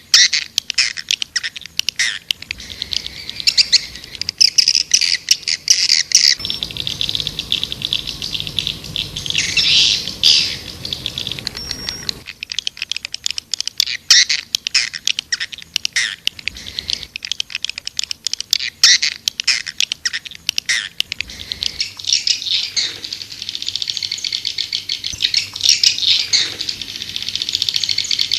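White-nest swiftlets twittering in a dense, continuous chatter of rapid chirps and clicks. This is a swiftlet call recording, the kind played to lure swiftlets into a nesting house.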